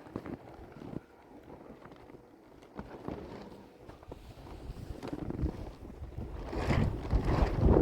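Blizzard wind gusting against the microphone, swelling to its loudest over the last few seconds, with scattered knocks before it.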